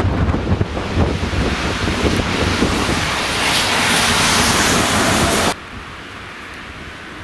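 Strong storm wind gusting and buffeting the microphone with a heavy low rumble and a rising rush of hiss. About five and a half seconds in it cuts off abruptly to a much quieter steady hiss.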